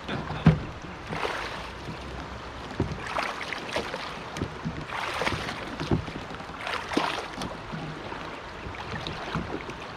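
Rushing, splashing river water around a kayak in a rocky shoal, with irregular knocks and thumps of the hull and paddle; the sharpest thump comes about half a second in.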